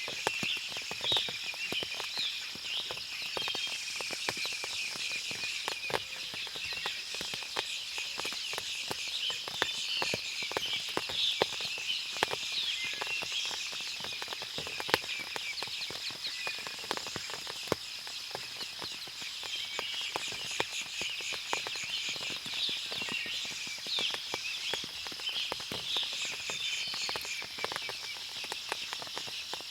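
Forest after rain: many birds chirping busily over a steady high insect hum, with scattered sharp drips throughout.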